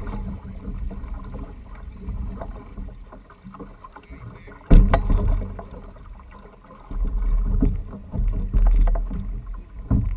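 Uneven low rumbling noise with one sudden loud thump about halfway through, and heavier rumbling surges near the end.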